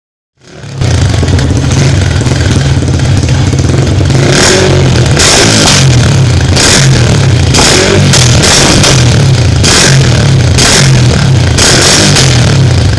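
Yamaha R15 V3's single-cylinder engine through an aftermarket modified exhaust, running loud and revved again and again. It fades in about half a second in.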